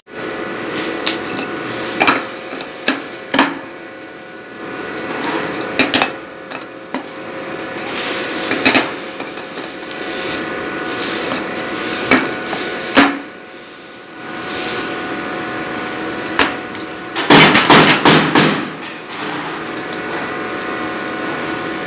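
Hand tools clinking and tapping on metal while a broken screw is worked out of a router's base. There are scattered single knocks, then a quick run of louder knocks about seventeen seconds in, over a steady hum.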